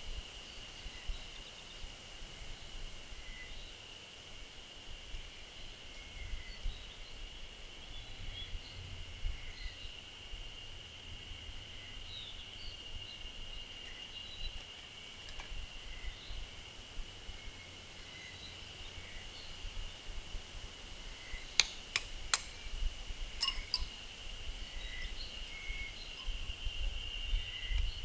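Forest ambience: a steady high insect drone with scattered short bird chirps and a low wind rumble. About three quarters through come a few sharp knocks in quick succession, like pieces of wood clacking.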